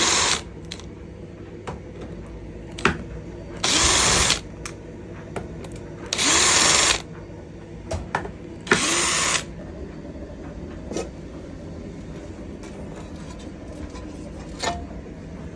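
Cordless drill-driver running in four short bursts, unscrewing the screws that hold the scooter's deck plate. Light clicks and handling noises between and after the bursts.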